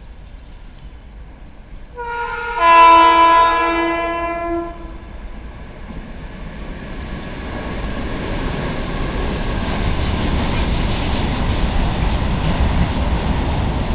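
An approaching locomotive sounds its horn about two seconds in, a chord of several tones held for about three seconds. Then a long freight train of covered wagons rolls past, the rumble and clatter of its wheels on the rails growing steadily louder.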